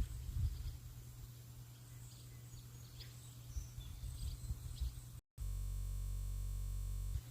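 Faint songbird chirps over a low, uneven rumble of outdoor background noise. About five seconds in the sound cuts out for an instant, and a steady buzzing drone takes its place for about two seconds before the outdoor sound comes back.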